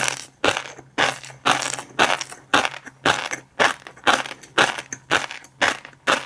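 Close-miked chewing of a mouthful of fish roe, the pearls crackling and popping with each bite in a steady rhythm of about two chews a second.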